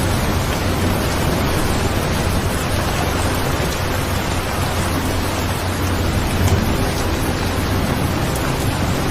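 Steady rain-sound track: an even, unbroken hiss of falling rain with a low rumble beneath it.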